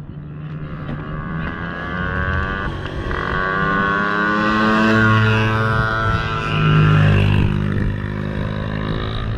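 Dirt bike engine running and revving as it rides, getting louder toward the middle and easing off near the end.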